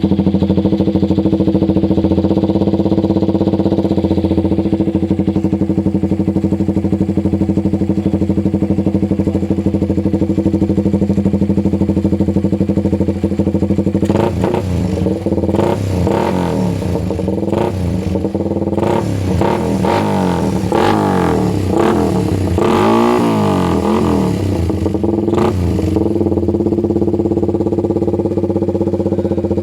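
Motorcycle fitted with a 'Kou super open' open exhaust pipe, idling steadily. From about halfway in it is revved in a series of throttle blips, rising and falling sharply for about twelve seconds, then it settles back to idle.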